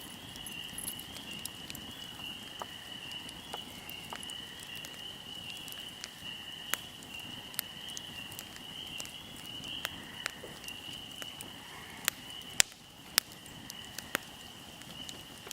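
Fire crackling, with sharp pops at irregular spacing and a few louder ones near the end. Under it runs a steady high-pitched chirring of insects.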